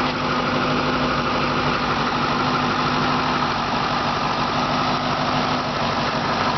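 2006 Ford Mustang GT's 4.6-litre V8 idling steadily.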